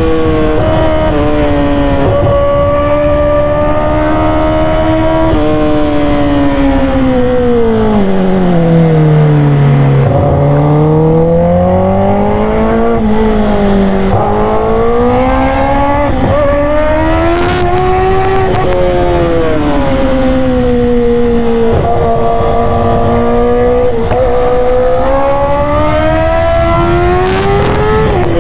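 Kawasaki ZX-10R's inline-four engine through an SC Project exhaust while riding, running loud and steady. Its pitch sinks slowly to a low point about ten seconds in, then climbs again, with several smaller rises and falls as the throttle changes.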